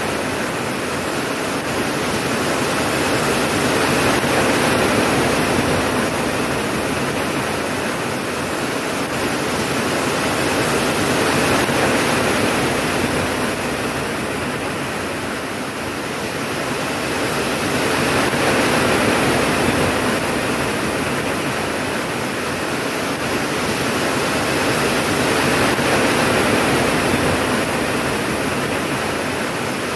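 Steady heavy rain: a dense, even hiss that swells and eases gently every seven seconds or so, with no thunderclap.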